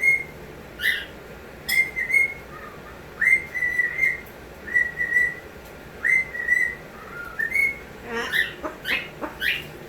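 Pet bird whistling a repeated short phrase: each whistle swoops up quickly and then holds a steady note, about once a second. A few short, harsh chirps follow near the end.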